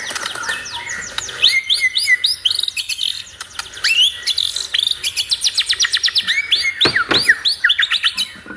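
A songbird singing loud, sharp whistled notes that sweep quickly downward, mixed with short chips and a fast even run of about nine notes a second in the middle. This is pancingan song, played to rouse caged songbirds into singing.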